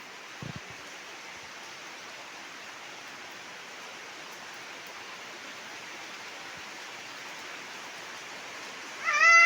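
Steady hiss of falling rain. Near the end comes a short, loud, high-pitched cry that rises in pitch.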